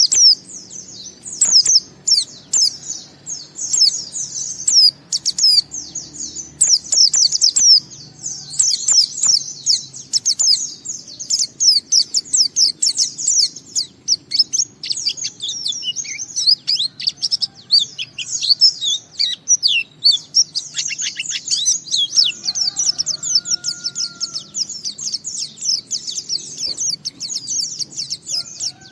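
Pleci (white-eye) singing a long, unbroken run of rapid, high twittering notes: the continuous 'ngalas' song that keepers play to coax other pleci into singing. A couple of faint, lower whistled notes come in during the last third.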